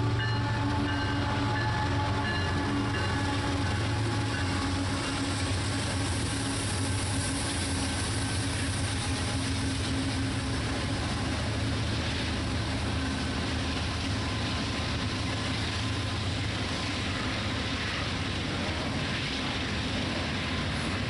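Norfolk Southern diesel-electric freight locomotive running past with a steady engine drone, over the rumble of freight cars rolling by on the rails.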